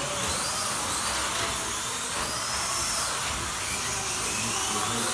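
Several slot cars racing at once, their small electric motors whining high, the pitch rising and falling over and over as the cars speed up on the straights and brake for the turns.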